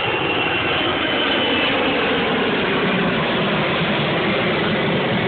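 Large jet airliner climbing away after takeoff, its engines a loud, steady roar.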